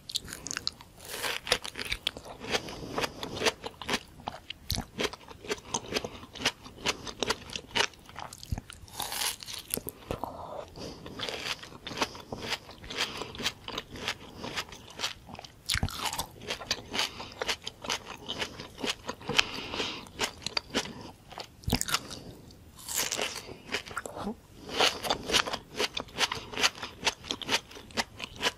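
Close-miked biting and chewing of raw tomato slices topped with whipped cream: a dense, irregular run of sharp crunches and mouth sounds.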